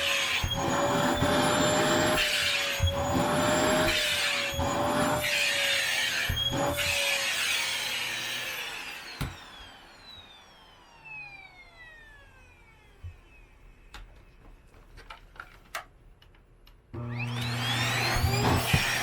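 Vacuum cleaner running over a hair-covered blanket, its motor whine wavering slightly and its noise dipping about once a second with the strokes. It is switched off about seven seconds in and the motor winds down in a long falling whine, followed by a few handling clicks. Near the end it is switched back on and spins up with a rising whine.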